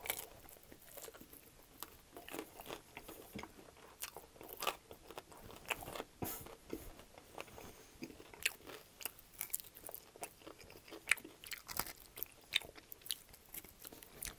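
Close-miked biting and chewing of extra-crispy sauced chicken wings: irregular sharp crunches of the crisp skin and wet mouth sounds, scattered throughout.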